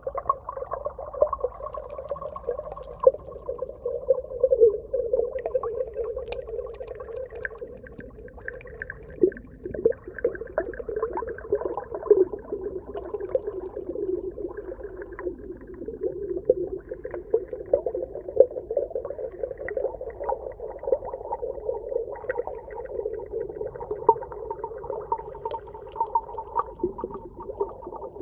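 Underwater ambience: a continuous mid-pitched, gurgling drone full of small crackles and clicks, dipping slightly lower in pitch about a third of the way in.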